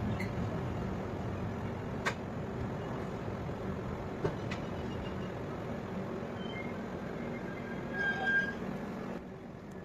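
Passenger train running, heard from inside the coach: a steady rumble and hum with two sharp clicks, a brief high tone about eight seconds in, and the noise dropping a little near the end.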